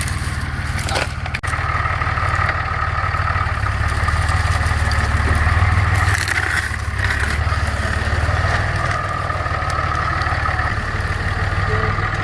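Truck engine running steadily at low speed while the truck is slowly maneuvered, with a few sharp cracks in the first second or so.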